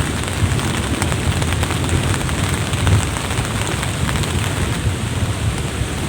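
Steady rain falling, with scattered drops ticking and a low rumble underneath.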